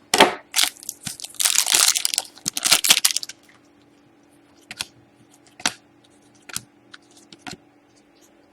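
Trading card pack wrapper and cards crinkling and rustling for about three seconds, then a few single light clicks as the cards are handled.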